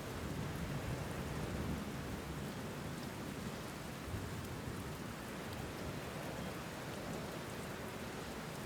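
Steady rainfall: an even hiss with a low rumble underneath.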